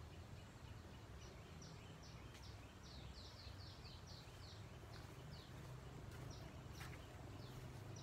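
Faint bird chirping: a run of short, quick, high notes, about three or four a second, over a low steady hum.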